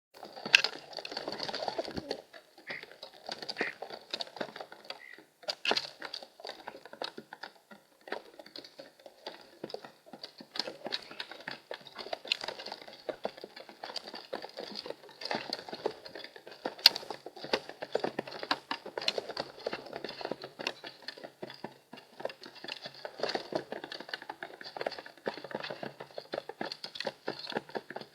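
Pigeons and starlings pecking and stepping in a feeder tray close to the microphone: a rapid, irregular tapping on the tray with a few louder knocks.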